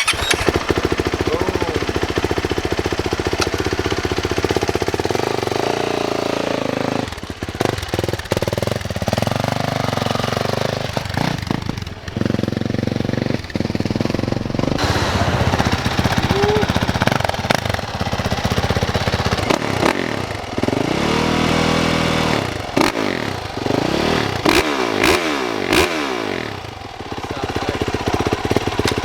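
2018 Yamaha YZ450F dirt bike's single-cylinder four-stroke engine running just after an electric start, revved and ridden, its pitch rising and falling several times.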